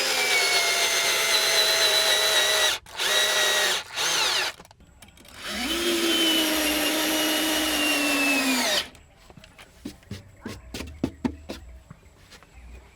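Electric drill running in four bursts, its whine dropping slightly in pitch as it works; the last and longest lasts about three seconds. After that come only light scattered clicks and knocks.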